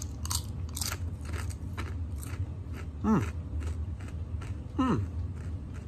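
Crunching of a kettle-cooked potato chip being chewed, close to the mouth, with a few crunches a second over a steady low hum. Two short downward-sliding squeaks come about 3 seconds in and again near the end, and are the loudest sounds.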